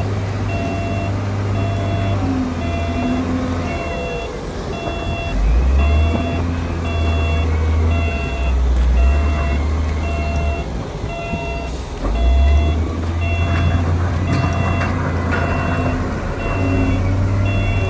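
Heavy construction machine's diesel engine running, with its reversing alarm beeping about twice a second. The engine's drone steps up in pitch and level twice as it takes load.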